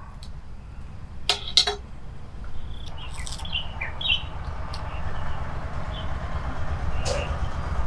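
A few short bird chirps, clustered about three to four seconds in, over a low steady outdoor rumble, with a couple of sharp clicks about a second and a half in.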